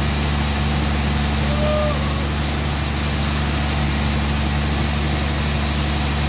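An engine running steadily at constant speed, a low, unchanging drone. A short pitched call cuts through it about a second and a half in.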